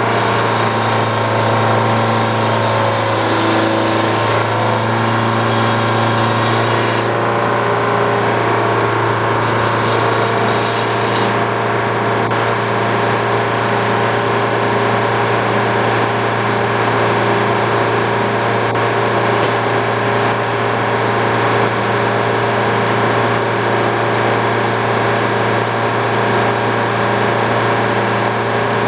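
Old Frick sawmill running: a steady machine drone with a strong low hum and many steady tones. A hissing layer on top stops abruptly about seven seconds in, and a fainter one about eleven seconds in.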